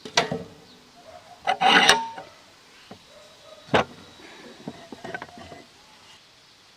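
Separate sharp knocks and a short scraping clatter, as of wooden pieces being handled and set down. The loudest is a half-second clatter about two seconds in.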